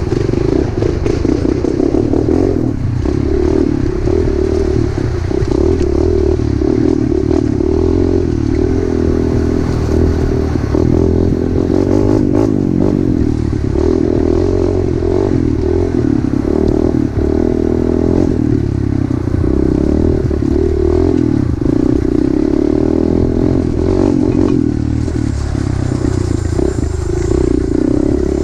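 Pit bike engine running as the bike is ridden over a trail, its note wavering with the throttle, with scattered rattles and knocks from the bike over rough ground.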